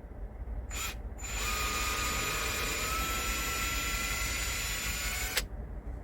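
A small power tool's motor gives a short blip, then runs steadily with a whine for about four seconds and cuts off suddenly.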